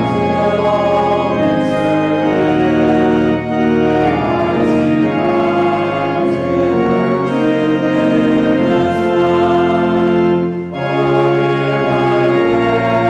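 Organ playing slow, sustained chords in a closing postlude, with two short breaks between phrases.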